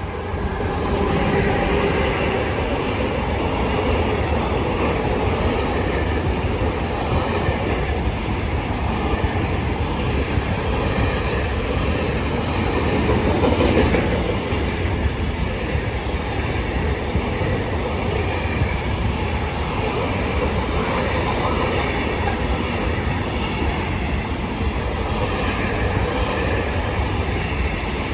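A train rolling past on the rails, a steady loud rolling noise of wheels and cars that builds about a second in and peaks briefly about halfway.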